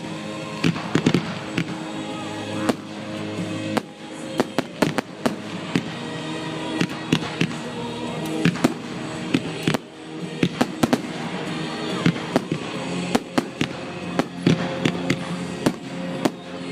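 Fireworks display: a fast, irregular series of sharp bangs and crackles, with music playing underneath.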